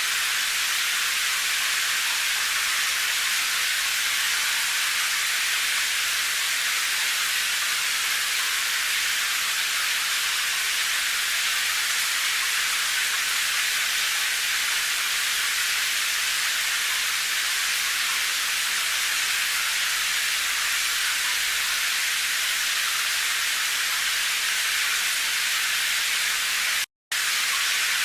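Steady, even hiss of rain with no separate drops standing out, mostly high in pitch. It cuts out completely for a split second about a second before the end.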